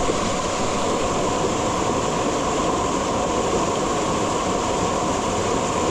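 Steady rush of water from a waterfall pouring into a mountain stream.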